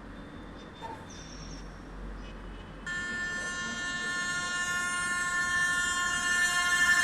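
Indian Railways locomotive horn sounding as a train approaches at speed. The horn comes in suddenly about three seconds in as a multi-note chord and is held steadily, growing louder as the train nears.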